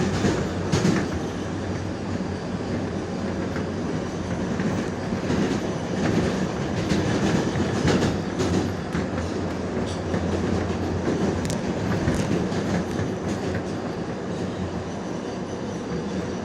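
R142A subway car running through the tunnel, heard from inside the car: a steady rumble of wheels on rail with scattered sharp clicks over the rail joints.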